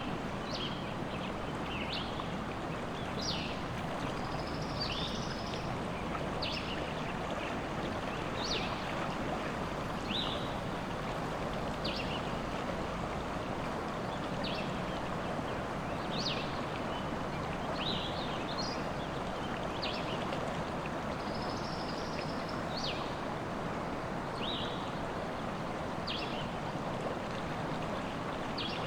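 River water rushing steadily, with a songbird giving short, sharp chirps every second or two over it and a brief higher trill twice.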